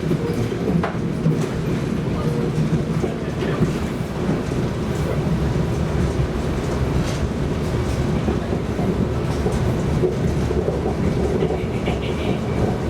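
Tram running along its tracks: a steady rumble of wheels on rails, with scattered light clicks and knocks.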